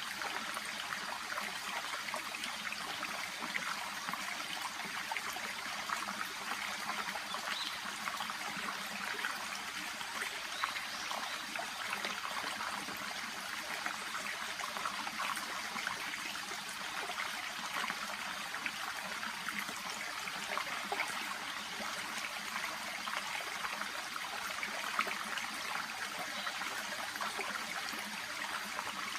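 Shallow brook babbling and trickling steadily, a constant fine splashing of water running over stones and through water plants.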